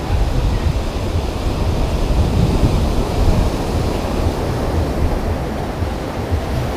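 Loud, steady rushing noise with a heavy, fluttering low rumble, typical of wind buffeting the microphone.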